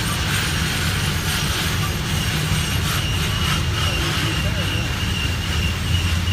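Freight train of tank cars rolling past, a steady low rumble of wheels on rail. A thin, steady high squeal of wheel flanges on the curve comes in about three seconds in.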